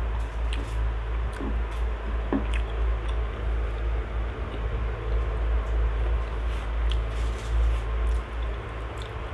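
Close mouth sounds of someone eating fried catfish and rice by hand: wet chewing and lip smacks with scattered small clicks. A steady low hum runs underneath.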